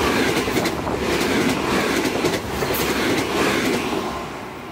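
Electric commuter train running past, its wheels clacking over the rail joints. The sound begins to fade near the end as the train moves away.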